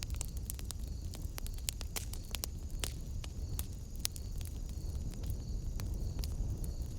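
Wood fire in a fireplace crackling, with irregular sharp pops and snaps over a steady low rumble of flames.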